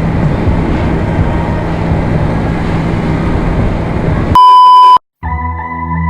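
Yamaha R1M sport bike running while riding, its engine under heavy wind noise. About four seconds in, this cuts to a loud, pure beep lasting about half a second. After a brief gap, music starts for the last second.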